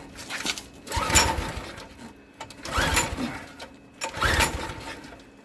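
Briggs & Stratton Quantum Edge 6.5 HP lawn-mower-type engine being pull-started on full choke: three pulls of the recoil starter, each a short whirring crank about a second and a half apart, without the engine catching.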